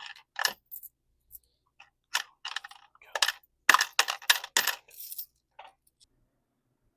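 Coins clinking and dropping against each other in a quick, irregular string of sharp metallic clinks, thickest between about two and five seconds in.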